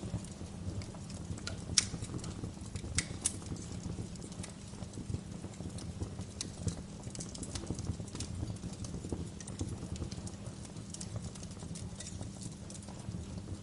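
Wood fire crackling in a fireplace: a steady low rumble of flames with irregular snaps and pops, the two loudest about two and three seconds in.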